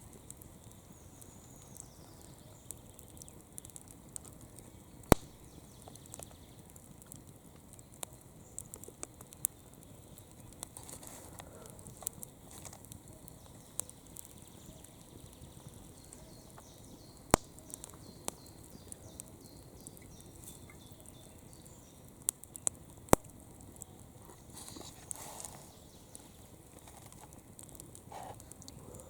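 Campfire with wood burning and crackling: a steady low hiss dotted with small cracks and a few sharp, loud pops, three of them close together a little past the middle.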